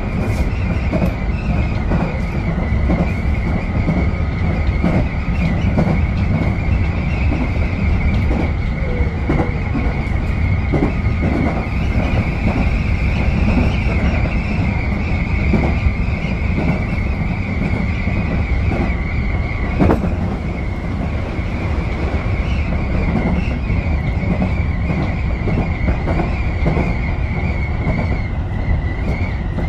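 Tobu 10030 series electric train running along the line, heard from on board: a steady low rumble of wheels on rail with irregular clicks from rail joints and a steady high tone running over it.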